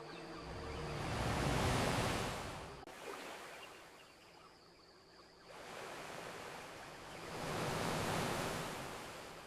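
Ocean waves washing onto a beach: two swells, each rising and fading away, about six seconds apart. A single sharp click sounds about three seconds in.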